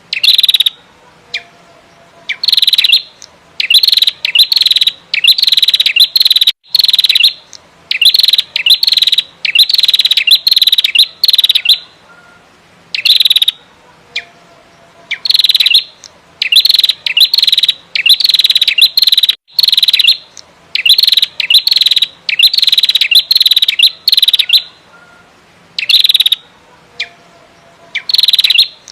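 Female prenjak merah, a prinia, calling actively in short bursts of rapid, high chattering notes. Each burst lasts under a second, and the bursts come in quick succession with brief pauses between them.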